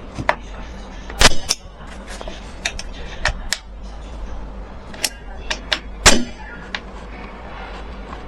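Irregular sharp clicks and knocks, about a dozen, the two loudest about a second in and about six seconds in, over a steady low hum.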